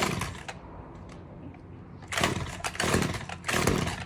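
Chainsaw running with a steady low idle, revved in about four short bursts, one at the start and three close together in the second half.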